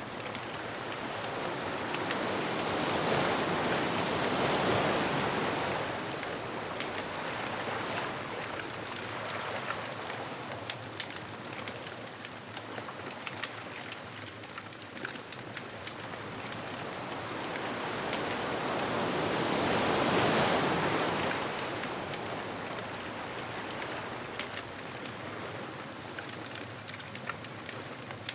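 Ocean waves washing onto a beach: a continuous hiss of surf that swells twice, about four seconds in and again about twenty seconds in, then eases back, with scattered small crackles throughout.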